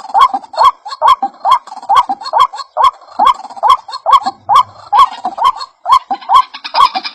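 White-breasted waterhen (ruak-ruak) calls repeating steadily, about two rising notes a second, each with a sharp click. It is a bird-lure recording meant to draw waterhens in.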